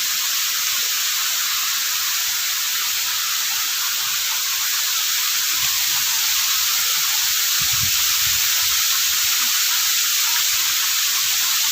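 Steady rushing of river water, a loud even hiss with no breaks.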